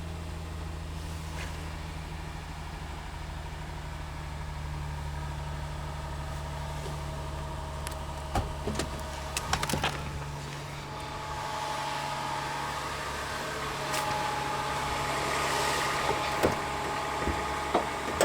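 Honda Pilot's 3.5-litre J35 V6 running at a steady idle just after a cold start in extreme cold. A few sharp clicks and knocks come about halfway through, and wind noise rises near the end.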